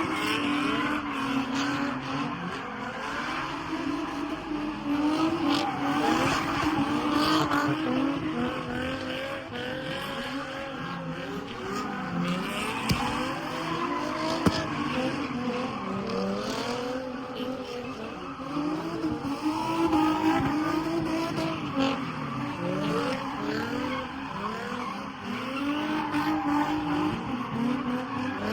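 Car engine revving up and down over and over, with tyres squealing: a burnout.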